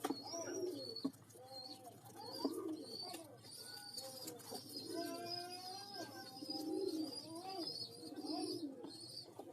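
Domestic pigeons calling over and over in short cooing phrases, with a thin high squeaking running alongside.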